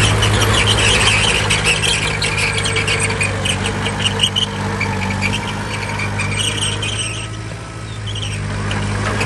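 Heavy diesel engine of a bulldozer running steadily, with high metallic squealing and rapid clanking from its crawler tracks over it. The engine eases briefly about three-quarters of the way in, then picks up again.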